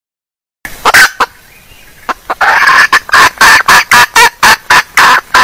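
Junglefowl hen calling, as used for a lure call. It starts about half a second in with two loud clucks, goes quieter for about a second, then breaks into a fast, even run of clucks, about three a second.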